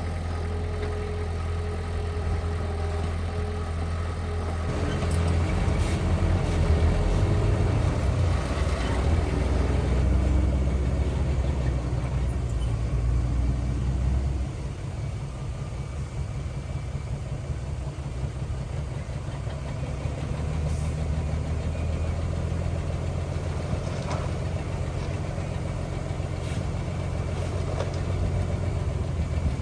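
Heavy diesel engine of earthmoving equipment running, louder under load for several seconds, then dropping suddenly about halfway through to a lower, steady idle.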